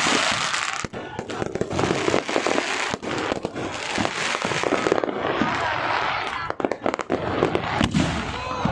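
Aerial fireworks going off in quick succession: a dense run of sharp bangs over continuous crackling.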